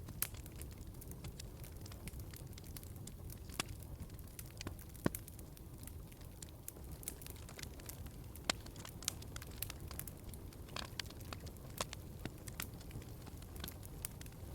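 Wood fire burning in a fireplace: a steady low rumble of flames with irregular sharp crackles and pops, two louder pops about five and eight and a half seconds in.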